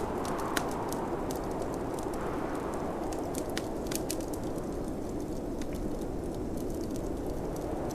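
Wood fire crackling, with irregular sharp pops several times a second, over the steady low rush of snowstorm wind.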